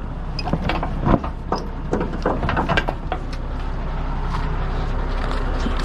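Vehicle engine running steadily, with a run of sharp clicks and knocks over about the first three seconds.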